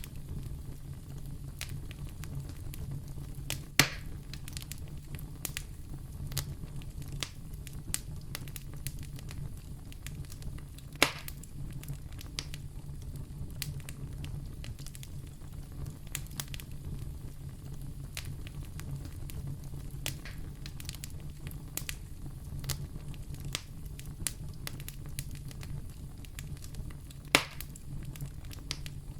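Wood fire in a fireplace crackling steadily, with many small clicks over a low, even rumble. Three sharper, louder pops stand out: about four seconds in, about eleven seconds in, and near the end.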